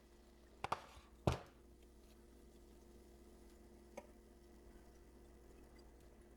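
Small tools and parts being handled on a repair bench: a quick double click, then a louder knock, and one light tick a few seconds later, over a faint steady hum.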